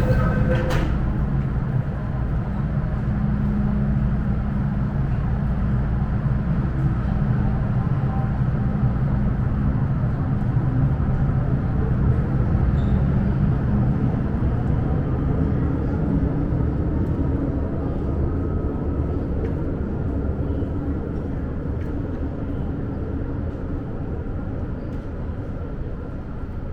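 MTR Island Line M-train electric multiple unit pulling out of the platform and accelerating, its traction motors humming with tones that climb slowly in pitch over the wheels' rumble. The sound fades gradually near the end as the train draws away.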